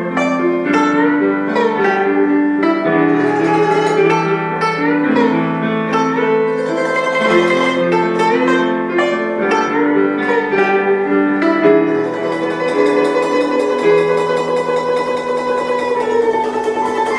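Guzheng playing a melody in plucked notes, with some notes bent up and down in pitch by pressing the strings. From about twelve seconds in the notes run together more densely.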